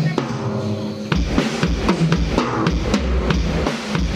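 Drum kit playing a beat, kick drum and snare, through a large PA sound system during a sound check. A held pitched tone fills the first second before the strikes come in.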